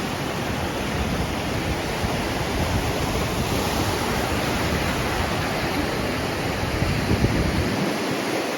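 Surf washing onto a sandy beach at high tide, a steady rush of waves, with wind rumbling on the microphone that drops away near the end.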